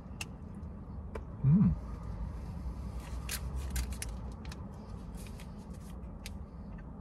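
Chewing a mouthful of chocolate, with small crinkles and clicks from a plastic snack wrapper being handled, and a short hummed 'mmm' of approval about a second and a half in.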